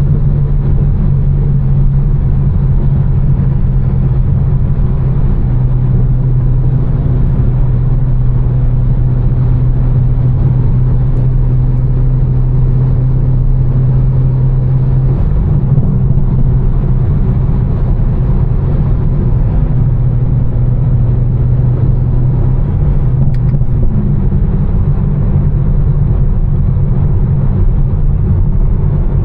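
Modified BMW M4 twin-turbo inline-six with a Fi exhaust and catless downpipes, cruising with a steady low drone over road hiss. The engine note shifts about halfway through and again a few seconds later.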